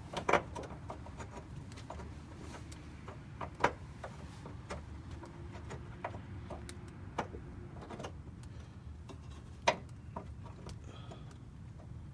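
Irregular metallic clicks and light knocks from hand tools working on a car's rear suspension, with four louder knocks spread through, over a low steady hum.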